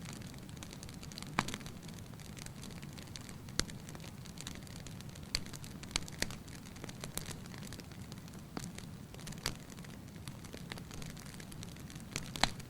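Large outdoor Easter bonfire burning, with a steady low noise and sharp crackling pops every second or two at irregular intervals.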